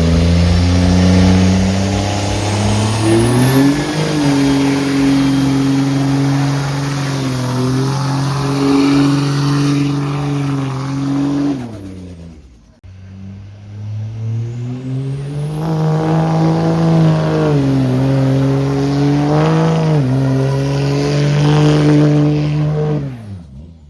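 Truck engine revving up and held at high revs for several seconds, twice, the pitch dropping away at the end of each run. A high whistle climbs with the revs each time.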